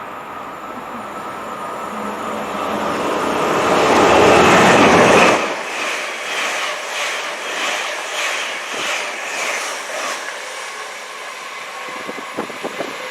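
Train passing close by at speed: the noise builds to its loudest about four to five seconds in, then drops sharply and gives way to a regular clatter of wheels, about two strokes a second, as the carriages go by.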